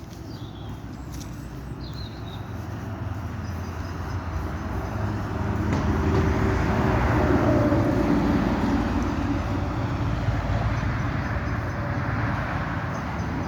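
A vehicle passing by, growing louder to a peak about halfway through and then slowly fading.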